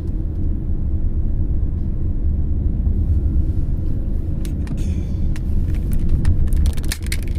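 Steady low rumble of a car's engine and tyres heard from inside the cabin while driving slowly, with a few light clicks and knocks in the second half.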